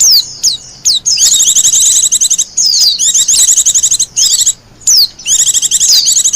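Wild white-eye (pleci) singing: rapid twittering runs of quick, high notes lasting about a second each, broken by short pauses and single down-slurred notes.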